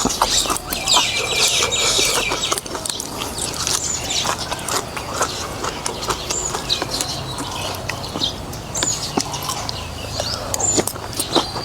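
Eating sounds from a bowl of beef noodle soup: irregular clicks and wet smacks of chewing and slurping, with short high chirping calls in the background.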